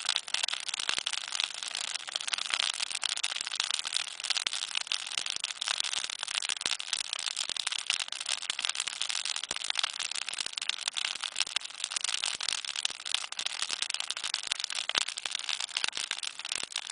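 Wood campfire burning, crackling with a dense, continuous stream of small sharp pops.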